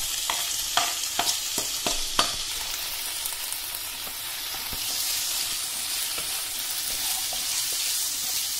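Chopped tomatoes sizzling in hot oil with sautéed onions in a pan as they are stirred with a wooden spatula. A few sharp knocks of the utensils come in the first two seconds or so, then a steady sizzle.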